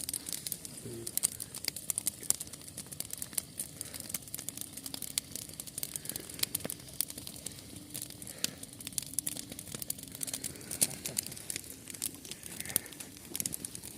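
Wood campfire crackling, with potatoes frying in lard and oil in a pan over it: a dense run of irregular sharp crackles and pops.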